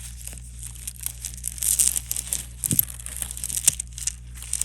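Plastic bag crinkling and rustling as it is handled, in irregular crackly bursts, with two small knocks a little past halfway.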